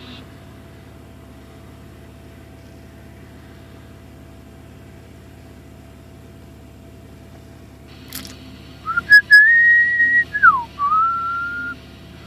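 Car engine idling steadily at about 600 rpm, with oil pressure holding good at idle. About nine seconds in, a person whistles a short wavering phrase that slides up, dips and levels off; it is the loudest sound, with a couple of clicks around it.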